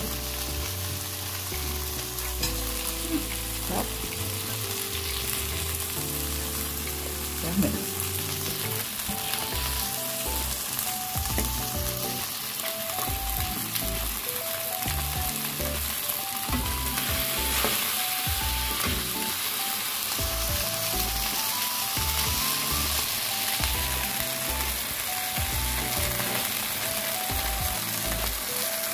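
Fresh oysters in an egg and tapioca-starch batter sizzling steadily as they fry in oil in a pan, with background music playing underneath, a light stepping melody over bass notes.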